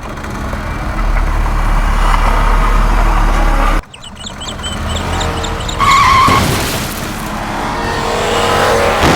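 Motor vehicle engine running with a strong low hum, cutting off abruptly a little under four seconds in; a second stretch of engine noise follows with short high chirps over it.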